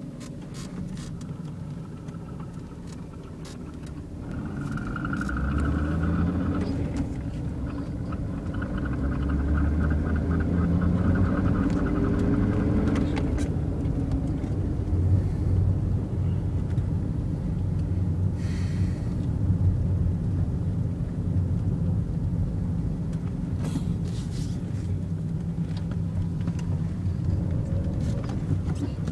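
Fiat Marea 2.4 20V inline-five engine running and revved up a few times, with a repeating 'tché tché tché' noise on acceleration whose rate follows engine speed. The cause is unknown to the owner.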